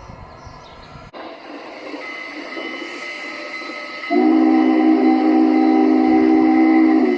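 Model locomotive's sound system blowing a chord horn: one long blast of about three seconds starting about four seconds in, over the loco's steady running sound from its speaker.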